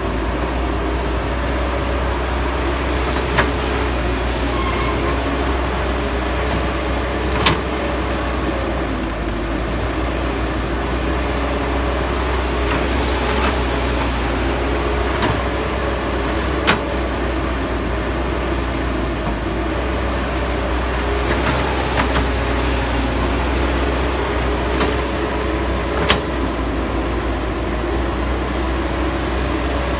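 Cat 312BL excavator's diesel engine running steadily at working speed, with a handful of short, sharp knocks from the machine scattered through.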